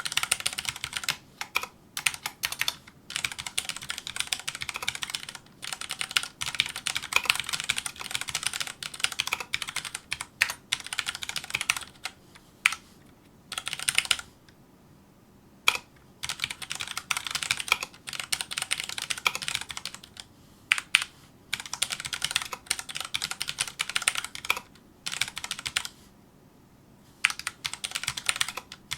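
Fast touch-typing on a Filco Majestouch2 mechanical keyboard with Cherry MX Brown switches: quick runs of key clacks, broken by brief pauses every few seconds.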